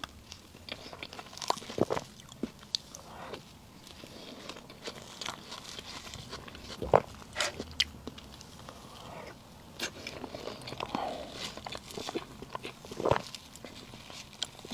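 Close-miked eating sounds: soft strawberry cream cake being chewed, with irregular wet mouth clicks and smacks. The loudest come about seven seconds in and again near thirteen seconds.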